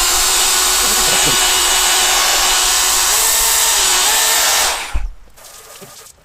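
Electric drill spinning a polishing pad on a plastic windscreen, the polishing stage of a headlight restoration kit: a steady whir whose motor pitch wavers slightly under load. It stops about five seconds in.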